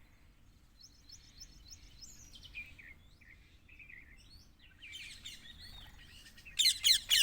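Several wild birds chirping and calling: a quick run of short high notes about a second in, scattered calls through the middle, and a loud burst of rapid high chirps near the end.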